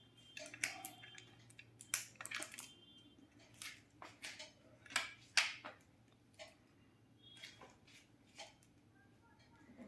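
Faint handling noises: an irregular run of sharp clicks and crackles, like plastic parts and wrapping being handled as a robot vacuum's charging dock and its cable are unpacked and set up.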